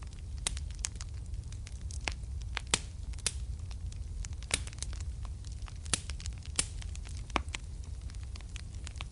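Wood fire crackling in a fireplace: irregular sharp snaps and pops, a few louder ones, over a steady low rumble.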